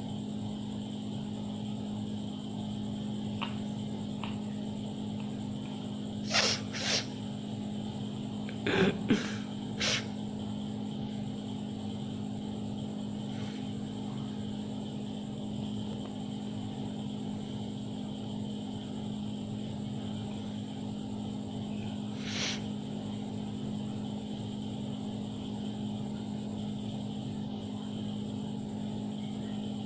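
A steady low hum, with a cluster of five or six short, sharp sounds between about six and ten seconds in and one more about twenty-two seconds in.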